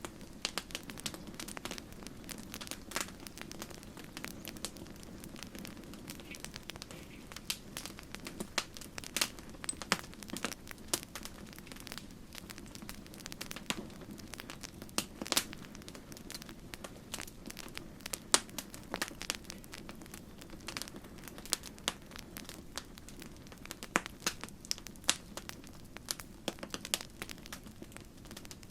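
Campfire burning: wood crackling and popping in many irregular sharp snaps, some louder than others, over a steady low sound from the flames.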